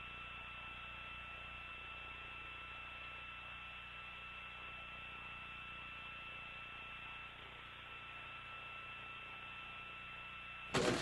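Steady low hum and hiss of an open radio communications channel between mission calls, with two faint steady tones that stop about seven seconds in.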